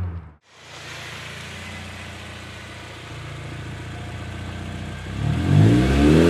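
Honda Civic Si's 2.0-litre four-cylinder through an aftermarket 4-2-1 header and 3-inch exhaust. After a brief break near the start, the car runs with a steady drone that slowly grows louder. About five seconds in, the engine revs up, its note climbing and getting louder.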